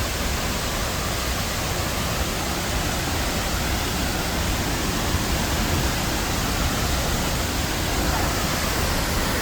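La Fortuna waterfall, about 70 metres tall, falling into its pool: a steady, loud rush of water.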